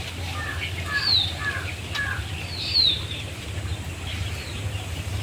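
Birds calling outdoors: two or three short falling whistled notes and a few shorter chirps, over a steady low hum.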